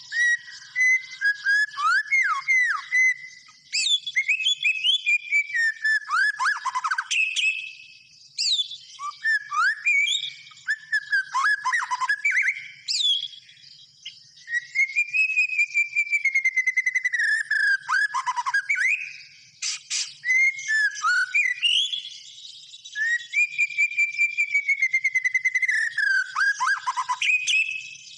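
White-rumped shama (murai batu) singing vigorously: a long string of varied whistled phrases with sliding notes, quick down-slurs and fast rattling trills, broken by short pauses between phrases.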